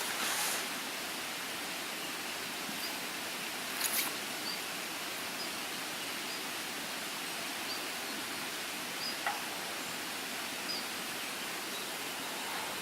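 Steady outdoor ambient hiss with faint, short, high chirps recurring about once a second, and a couple of brief clicks.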